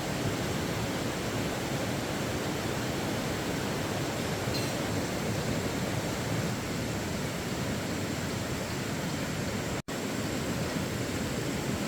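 Steady rushing noise with no distinct events, cutting out for an instant near the end.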